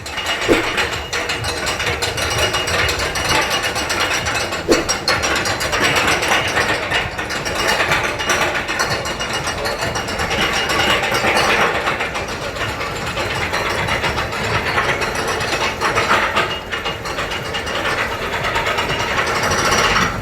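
Amusement ride machinery running with a dense, continuous ratcheting clatter.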